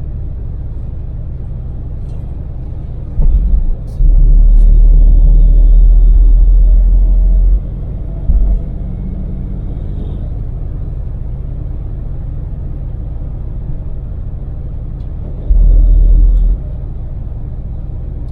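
A Daewoo Damas LPG microvan's small three-cylinder engine and road noise run steadily at expressway speed. Several loud, deep rumbling surges break in, the longest lasting about three and a half seconds.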